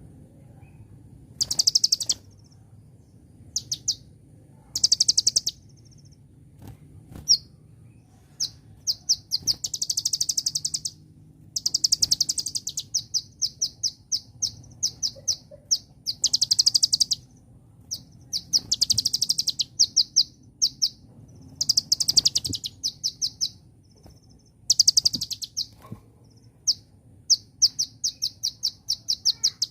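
Kolibri ninja sunbird singing: high, rapid trilled phrases of a second or two, alternating with quick strings of separate sharp notes, repeated with short pauses between them.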